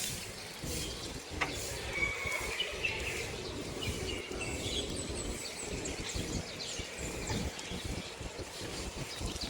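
Small birds chirping in short, repeated high calls over a low gusty rumble of wind buffeting the microphone.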